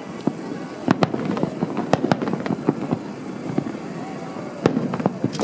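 Fireworks bursting overhead: a string of sharp bangs and crackles at irregular intervals, with a cluster about a second in, another about two seconds in, and more near the end.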